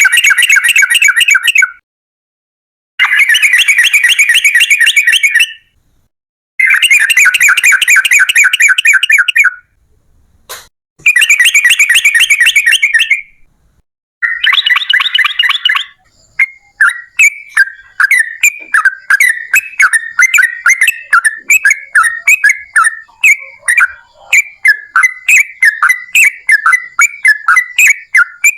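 Yellow-vented bulbul (trucukan) singing: rapid chattering phrases of about two seconds each, broken by dead-silent gaps, then about halfway through a looser continuous run of separate bubbly notes, a few a second. This is a long-song bait recording played to make other trucukan birds answer.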